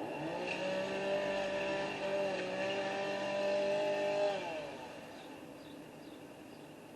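Chainsaw revved up and held at high speed for about four seconds, then let off, its pitch dropping back toward idle and fading.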